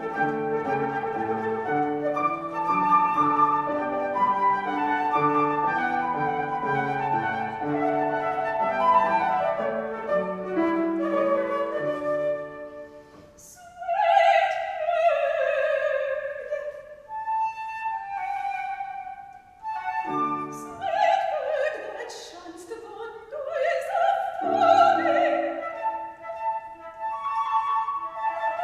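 Flute and piano playing a Baroque aria introduction. About halfway through, the loudness dips briefly, then a soprano voice enters with vibrato, singing over the flute and piano.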